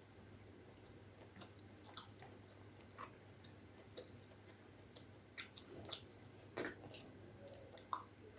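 A person chewing a mouthful of khichdi and chicken curry, with soft wet mouth smacks and small clicks that grow busier and louder in the second half.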